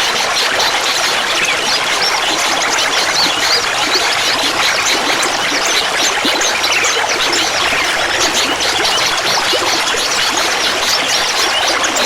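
Clear water trickling and babbling steadily, full of small quick splashing notes.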